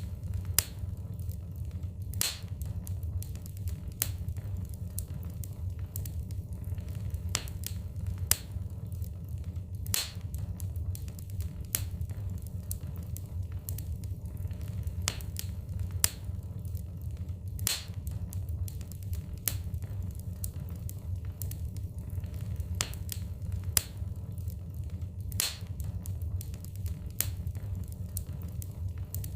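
Wood fire burning in a fireplace: logs crackling and popping at irregular moments, some pops sharper and louder, over a steady low rumble.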